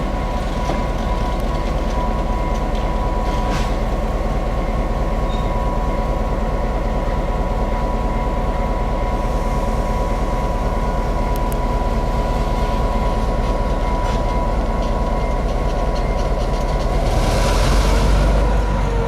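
EMD GP9 diesel-electric locomotive running, its 16-cylinder 567 diesel engine giving a steady pulsing rumble with a held whine on top. A rushing hiss swells near the end.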